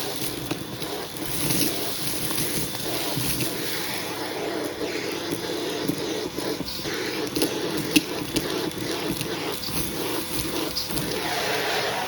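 Hoover vacuum cleaner running with a hose tool working over a shag rug. The suction noise shifts as the tool moves, with a sharp click about eight seconds in.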